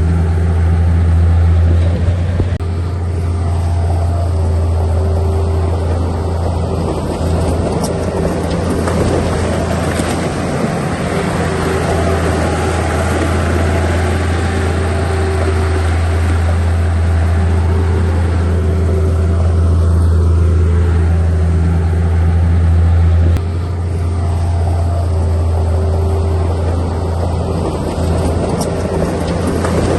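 Diesel engine of heavy earthmoving machinery running steadily under load, with a deep, constant drone. It eases slightly about two-thirds of the way through.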